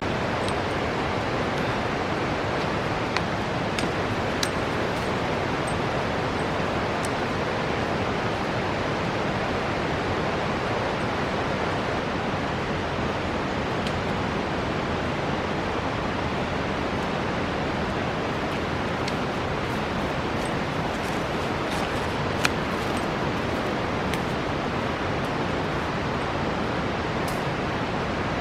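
Alpine river rushing steadily over its bed, an even wash of water noise, with a few faint sharp clicks over it, the clearest about two-thirds of the way through.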